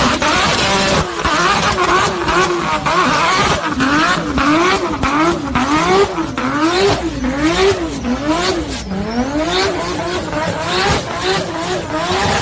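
Car engine revved over and over, its pitch rising and falling in quick blips about once a second in the middle stretch, then held steadier near the end, with sharp pops throughout.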